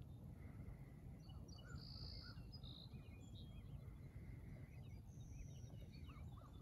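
Faint birdsong: scattered short chirps, whistles and arched calls from several birds over a steady low background rumble.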